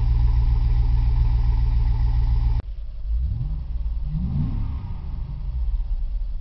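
2003 Chevrolet Tahoe's 5.3-litre V8 on its stock exhaust, idling steadily. About two and a half seconds in, the sound changes abruptly to a quieter idle, and the engine is blipped twice, its pitch rising and falling with each short rev.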